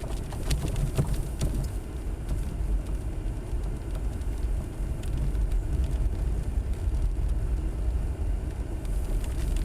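Jeep driving, a steady low rumble of engine and tyres, with a few sharp clicks in the first second or two and one more about halfway through.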